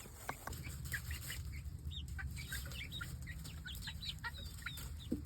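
A small flock of hens clucking and making many short, high chirps, more of them toward the end, over a steady low rumble.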